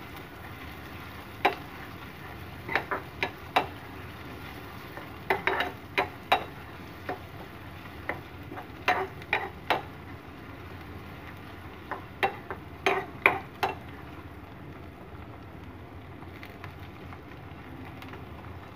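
Tempering of chopped onion, curry leaves and dry red chillies frying in oil in a small metal pan, with a steady faint sizzle. A metal spoon stirs them, clinking and scraping against the pan in irregular bunches of sharp clicks.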